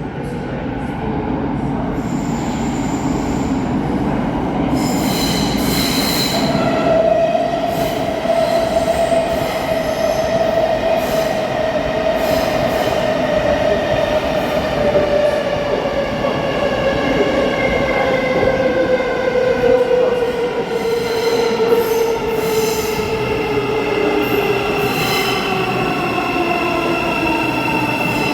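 Thameslink electric train running at the platform, with a rumble under it. A whine comes in about a quarter of the way through and falls slowly and steadily in pitch to the end as the train slows.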